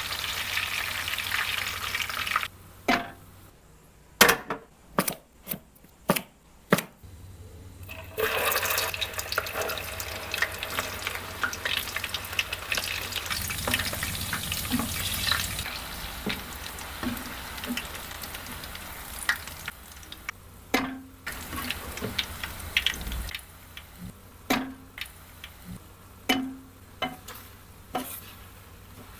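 Onion slices and then whole okra sizzling as they deep-fry in hot oil, stirred with a slotted spoon. Between the two fryings, and again near the end, there are only sharp separate clinks and taps of a spoon on the pan as the food is stirred.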